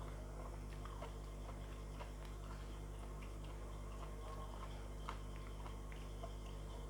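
Close-miked chewing and mouth sounds of someone eating a meal, with scattered small clicks, the clearest about five seconds in. A steady low hum runs under them.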